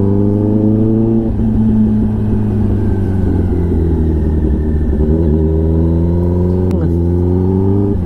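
Kawasaki ZX-10R inline-four through an SC-Project exhaust under way. The revs climb, drop about a second in, climb again from about five seconds, and fall sharply near seven seconds before rising once more.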